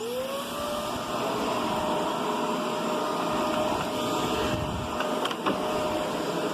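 Riccar Brilliance upright vacuum cleaner spinning up, its whine rising in pitch over the first second, then running steadily. A couple of short clicks about five seconds in.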